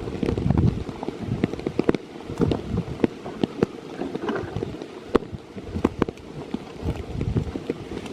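Rain falling, with heavy drops ticking sharply and irregularly on a surface close to the microphone, over low rumbles of wind on the microphone.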